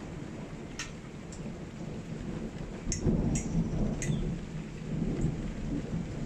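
Thunder rumbling over steady rain, the rumble swelling about three seconds in, with a few sharp raindrop ticks nearby.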